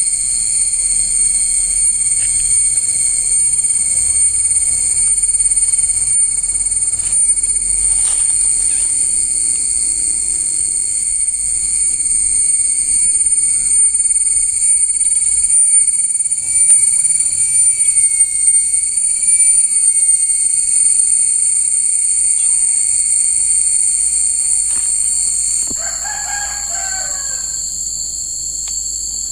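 Steady, high-pitched chorus of insects trilling at several pitches at once; one of the higher voices drops out near the end. Right after, a single bird call of about two seconds cuts in over the chorus.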